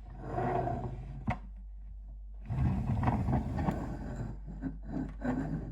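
Rustling and handling noises, with one sharp click a little over a second in.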